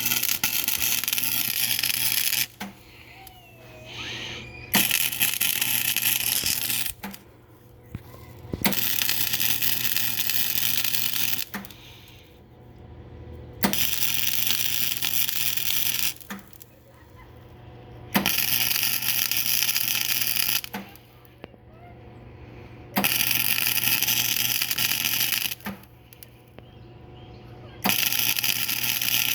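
Flux-core MIG welder crackling and sizzling in about seven short bursts of two to three seconds each, with brief pauses between them. This is stitch-welding in short bursts to fill a quarter-inch gap in thin, still-painted pipe while keeping the heat down so the pipe does not burn through.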